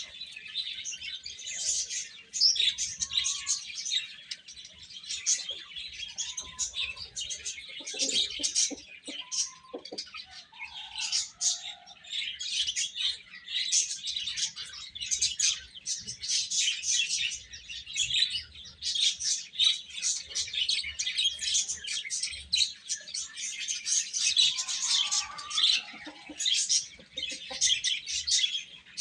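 A group of baby chicks chirping constantly: many short high-pitched peeps overlapping without a break.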